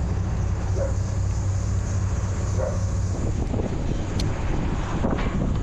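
A machine engine running steadily at a constant low pitch, with a short sharp click about four seconds in.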